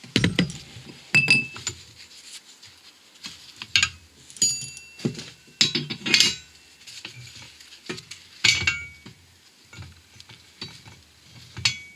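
Steel workshop parts and tools being handled and set down, making irregular metallic clinks and knocks. Some ring briefly, and the loudest come near the start, about a second in, and about eight and a half seconds in.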